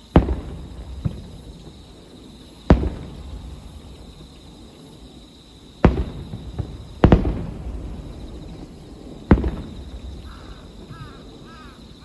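Aerial firework shells bursting: five loud booms a few seconds apart, with two smaller pops between them, each boom trailing off in a rolling echo.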